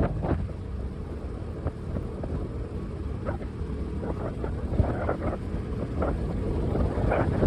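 Steady low rumble of riding along a road, vehicle noise mixed with wind on the microphone, with a few faint clicks.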